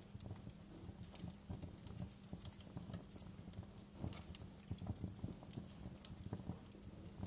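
Wood fire crackling in a fireplace: irregular small pops and snaps, a few sharper ones about four seconds in and again near six seconds, over a low steady hum.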